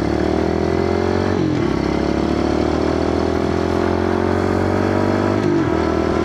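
Kawasaki KLX110 pit bike's 110 cc four-stroke single-cylinder engine accelerating hard, its pitch climbing steadily through each gear. It drops sharply at an upshift about one and a half seconds in and again near the end.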